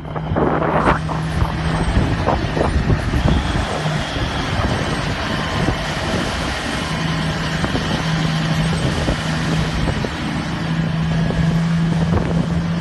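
Terex TR100 haul truck's diesel engine running, a steady low hum that fades out for a few seconds in the middle and comes back, over a loud rushing noise.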